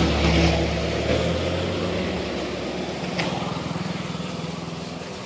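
Street traffic: a motor vehicle's engine running nearby, its hum fading over the first two seconds, over a steady street hiss, with one sharp click about three seconds in.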